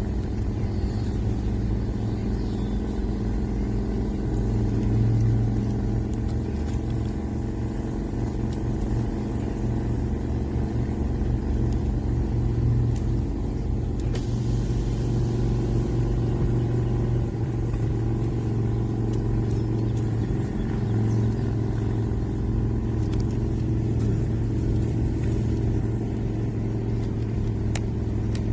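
Steady low engine and road rumble of a vehicle driving along at an even speed.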